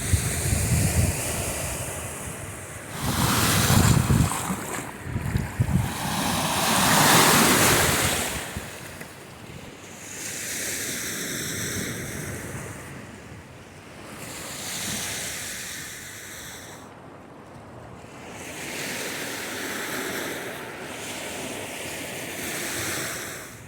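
Lake waves washing onto the beach in slow, repeated surges, the biggest about seven seconds in. Wind buffets the microphone during the first few seconds.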